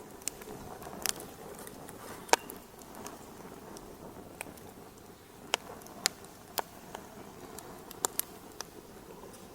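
Wood fire crackling: a steady soft hiss with sharp, irregular pops, the loudest a little over two seconds in and a close pair about eight seconds in.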